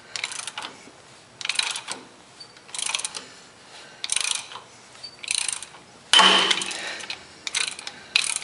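Ratchet wrench clicking in short strokes, about one a second, as it turns a homemade puller to draw a seized hydraulic line out of a Ford 2000 tractor. About six seconds in comes one louder, longer burst of noise.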